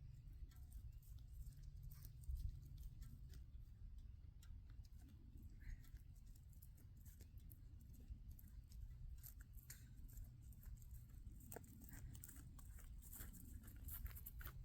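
Near silence: a faint low rumble with scattered faint clicks and crackles, which come more often in the second half.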